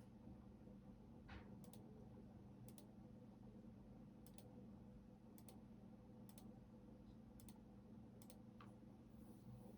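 Faint, slow clicks of computer keyboard keys, about one a second, each a quick double click of press and release, over a low steady hum. A brief falling squeak comes about a second in.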